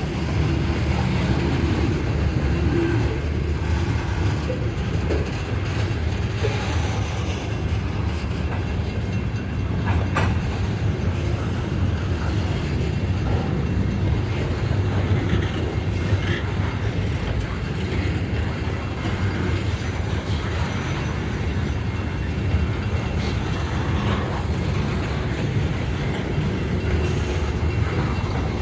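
Loaded coal hopper cars of a freight train rolling past, a steady low rumble of wheels on the rails with a few faint clicks.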